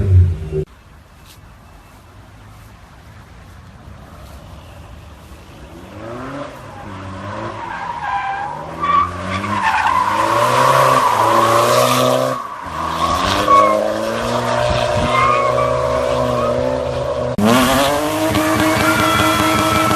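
A car drifting: the engine revs up and down under heavy throttle while the tyres squeal, growing louder from about six seconds in. Near the end it switches abruptly to a steadier high-revving engine with tyre squeal.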